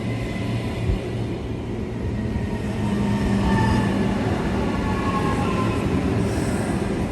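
Queensland Rail electric passenger train running on the tracks: a steady low rumble that grows louder about two seconds in, with faint whining tones above it.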